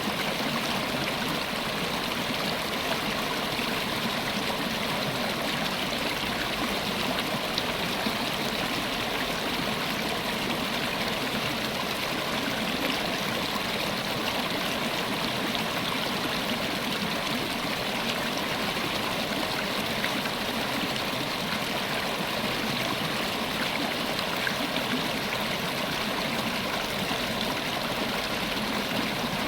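River water flowing over rocks: a steady rushing and babbling with no change in level.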